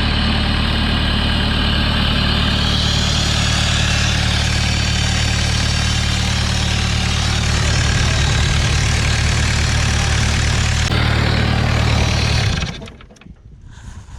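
A heavy engine running steadily at a fast idle, with a constant low hum and a dense mechanical noise over it; it stops abruptly about twelve and a half seconds in.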